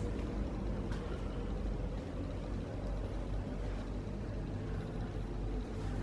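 Steady low rumble of a running vehicle, engine and road noise with no distinct events.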